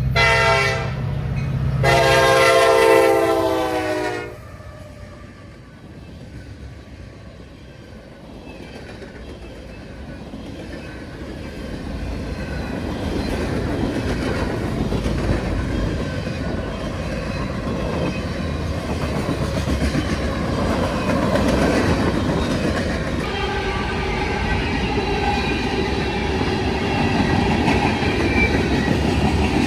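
Train's locomotive horn sounds a short blast, then a longer one about two seconds in; after a brief lull, the train's rumble builds and it rolls past, wheels clacking over the rails.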